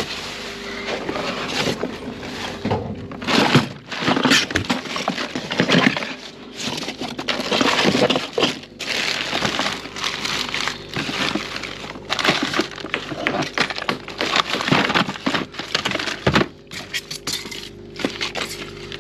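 Tools and hardware clattering and clinking in a toolbox as someone rummages through it, with irregular knocks and rattles throughout.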